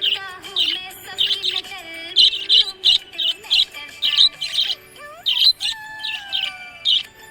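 Budgerigars chirping: short bright chirps several times a second over softer warbled and gliding notes.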